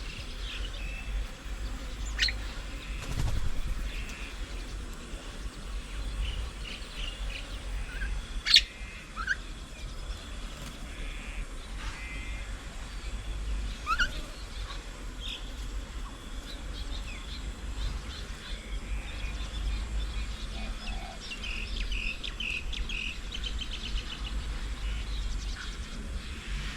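Wild birds chirping and calling in short, scattered notes, with one sharp loud note about a third of the way in and a quick run of repeated notes near the end, over a steady low rumble.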